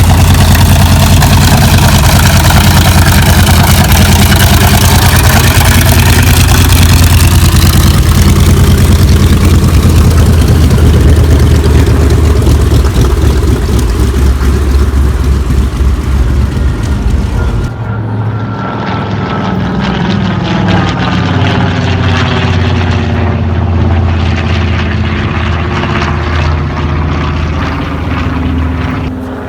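Grumman TBM Avenger's 14-cylinder Wright R-2600 radial engine and propeller droning as the plane flies past. About two-thirds of the way through it cuts to a second, quieter pass.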